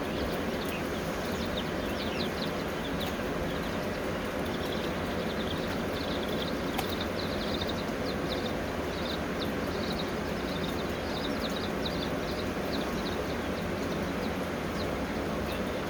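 Chickens giving many short, high chirps that mostly fall in pitch, scattered over a steady background noise.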